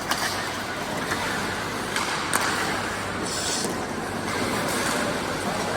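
Steady background noise of a hockey game, with a few sharp clacks and a brief high hiss about three seconds in.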